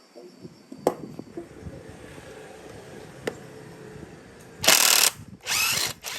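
Metal parts clinking and rattling, with a couple of sharp clicks, then a power tool run in three short bursts near the end.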